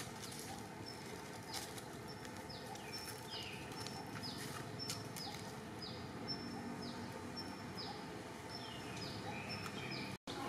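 A bird calling over and over, short high notes that each slide downward, about two a second, over a steady outdoor background hiss.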